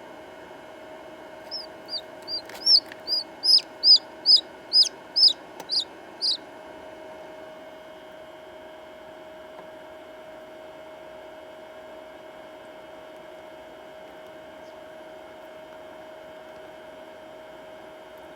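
A chick peeping: about a dozen short, high, falling peeps, two or three a second, over a few seconds, then stopping. A steady background hum runs throughout.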